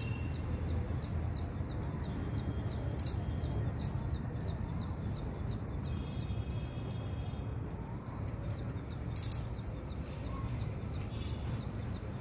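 Small birds chirping, with a quick run of high chirps about four a second for the first few seconds and a few sharper calls later, over a steady low rumble of background noise.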